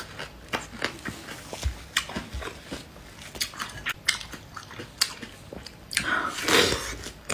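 Mouth chewing crisp green star fruit with small wet crunches and clicks. About six seconds in comes a louder, juicy bite into a slice of watermelon.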